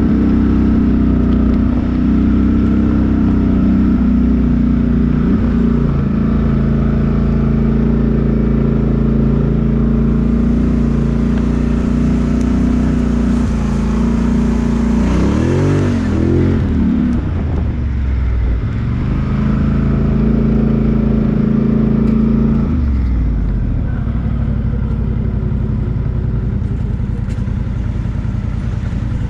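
Vehicle engine running steadily under load. Its pitch bends up and down about halfway through as the throttle changes, and shifts again a few seconds later.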